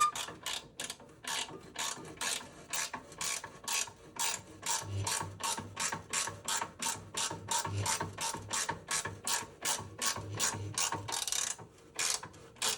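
Hand ratchet wrench being swung back and forth, a quick rasping click about three to four times a second, pausing briefly near the end.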